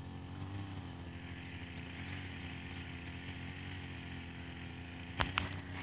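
Steady low mechanical hum, like a motor running, under a constant high insect trill; two sharp clicks near the end.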